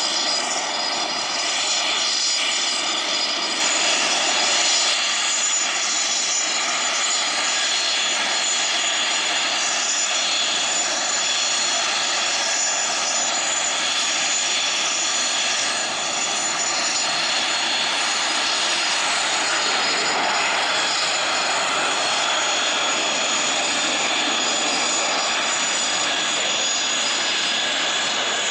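Business jet's turbofan engines running steadily: a rushing noise with several thin high whining tones, shifting slightly a few seconds in.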